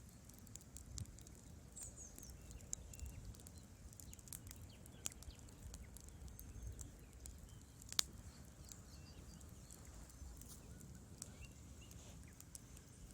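Wood fire burning in a fireplace, the logs crackling with irregular small pops and one sharp, loud pop about eight seconds in, over a low rumble.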